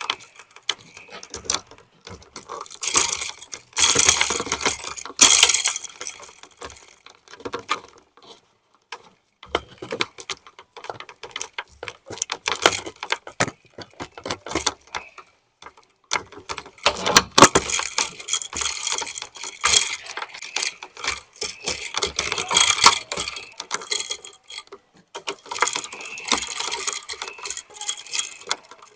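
Hand tools and metal parts clicking, clinking and scraping during hands-on electrical wiring work, in irregular taps and snaps with busier stretches of scraping about four to six seconds in and again from about seventeen seconds.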